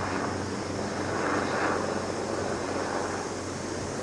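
Helicopter flying overhead at a distance: steady engine and rotor noise that swells and eases a little.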